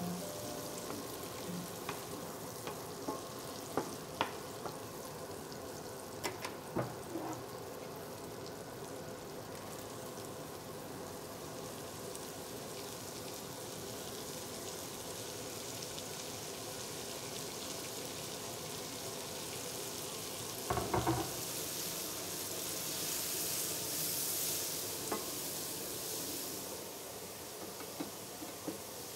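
Margarine sizzling in a frying pan as a wooden spatula stirs it, with a few light taps of the spatula on the pan. Sliced leeks are tipped into the hot fat and stirred, and the sizzle grows louder and hissier.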